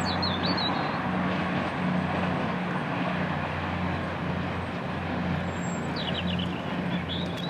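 A diesel train engine running steadily with a constant low hum. Birds chirp briefly at the start and again near the end.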